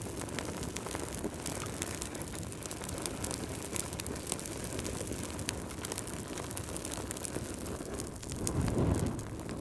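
Wood fire burning in a fireplace: a steady low rumble of flames with frequent small crackles and pops, swelling louder for a moment near the end.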